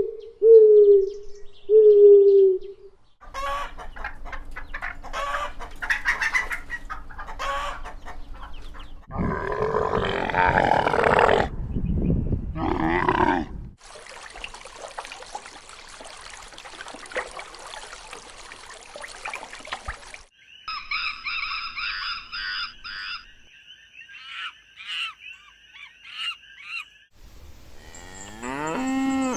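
A run of different farm animal calls, one after another, each lasting a few seconds, ending with a cow starting to moo.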